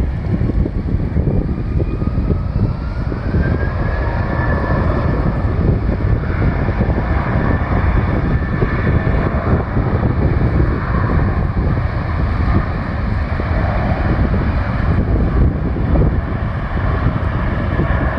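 Jet airliner's engines during a takeoff, a loud steady rumble with a whine that climbs in pitch over the first few seconds and then holds. Wind buffets the microphone.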